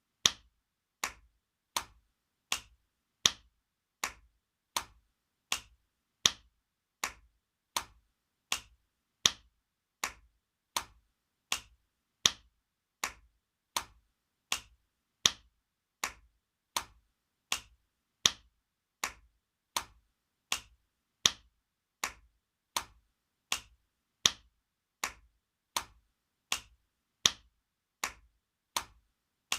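Spanking sound effect: a hand smacking skin in a steady series of sharp slaps, about two a second, some louder than others.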